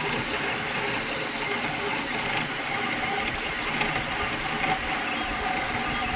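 A small motorized mechanism running steadily, an even whirring clatter with no change in pace.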